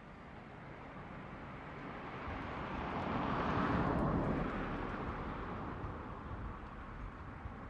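A vehicle passing by, its noise swelling to a peak about three and a half seconds in and then fading away.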